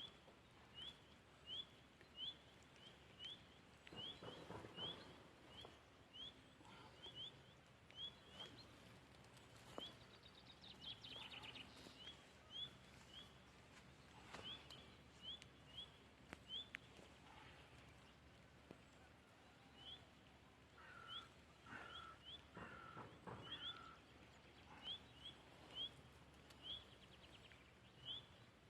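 A small bird chirping over and over, a short high upward chirp about every half second, with a few pauses. Faint rustling comes through now and then.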